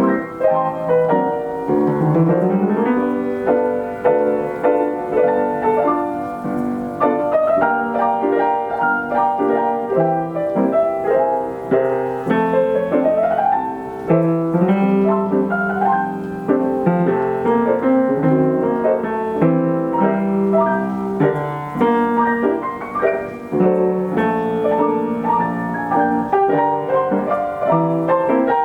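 Steinway grand piano with an Ampico B reproducing action playing a 1936 popular-song arrangement from a paper roll: full chords with quick rising runs up the keyboard.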